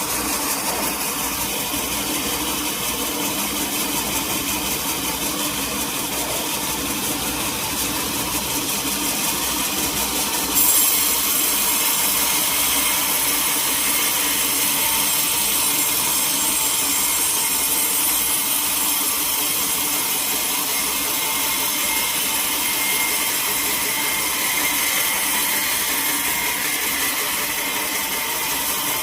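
Sawmill saw running steadily. About ten seconds in it bites into a teak log, and a harsh high-pitched cutting hiss sets in and holds to the end.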